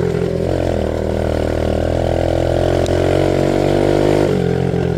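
Honda 50 mini bike's small single-cylinder four-stroke engine running under throttle while riding, its note climbing slightly, then dropping off sharply about four seconds in.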